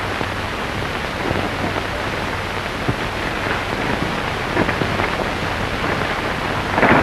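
Steady hiss with a low hum from an old optical film soundtrack, with a few faint knocks in the middle.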